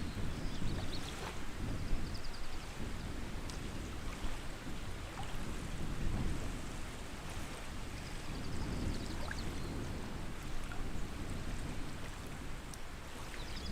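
Lakeshore ambience: water lapping with a low rumble that swells and eases. A bird gives a short, rapid trill faintly, about half a second in, around nine seconds, and again near the end.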